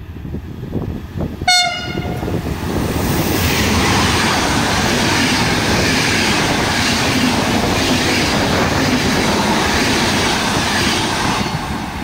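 Locomotive-hauled EuroCity passenger train sounds a short horn blast about a second and a half in, then runs through the station at speed: a loud, steady rush of wheels on rail as the coaches pass, easing off near the end as the train draws away.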